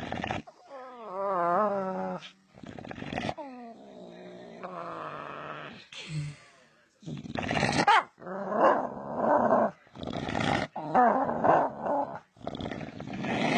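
A dog vocalizing: a long wavering call that slides down in pitch near the start, then a run of short, loud calls with brief pauses between them.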